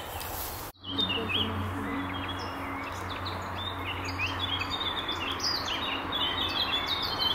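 Several small songbirds chirping and singing, many short high calls overlapping, cutting in abruptly about a second in. Underneath runs a low steady hum that fades out a few seconds later.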